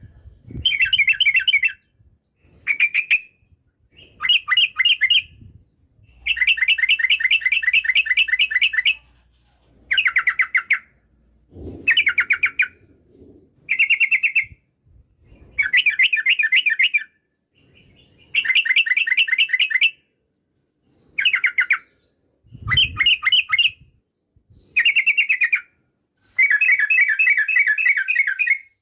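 Yellow-vented bulbul (trucukan) singing in repeated bursts of fast, chattering notes, each phrase lasting from under a second to about three seconds, with short pauses between phrases. Twice there is a faint low thud.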